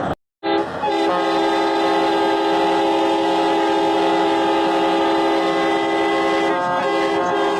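Truck's multi-trumpet air horn blowing one long chord, starting about half a second in and broken briefly twice near the end.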